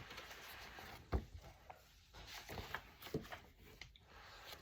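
Quiet room tone with a few soft knocks, the loudest about a second in.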